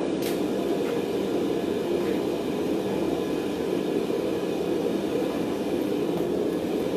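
Steady, even roar of a blacksmith's forge burning, with no hammer blows.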